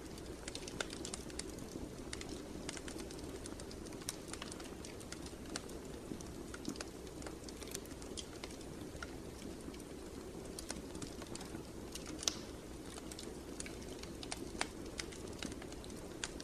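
Wood fire crackling with irregular small snaps and pops over a low, steady rush of flame; one sharper pop about three quarters of the way through.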